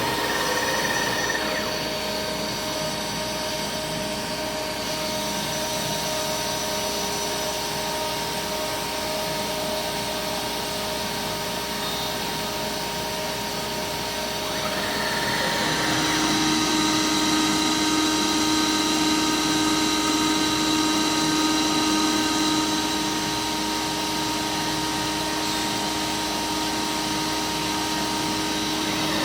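CNC router running a cut in aluminum composite panel: the router spindle's steady whine over cutting noise. About halfway through the tone shifts and it grows a little louder for several seconds, then eases back.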